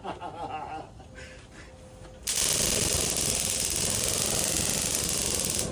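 Homemade propane flamethrower firing: a sudden loud, steady rush of gas and flame with a fast rasping buzz through it. It starts about two seconds in and cuts off sharply near the end.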